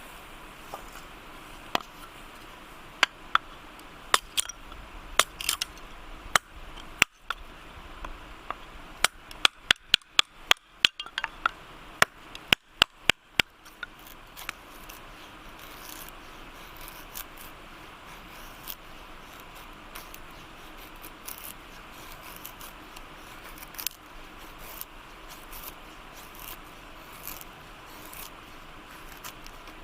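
Wood fire crackling: sharp pops come thick and fast in the first half, over a steady hiss, then thin out to occasional faint snaps.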